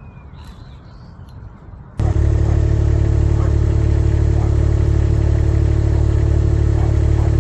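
A steady, loud, engine-like drone cuts in abruptly about two seconds in and holds an even pitch. Before it there is faint quiet sound with a few high chirps.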